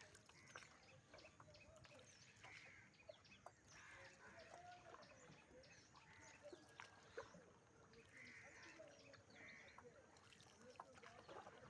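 Faint animal calls, with short chirps and brief wavering cries scattered over a quiet background.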